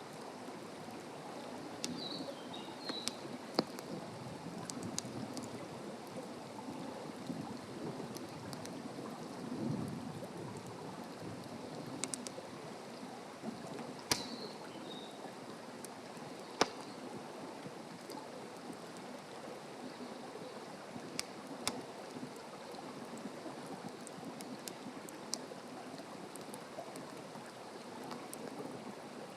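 Open wood campfire burning, with a steady rush of flames and scattered sharp crackles and pops. A bird chirps a few times near the start and again about halfway through.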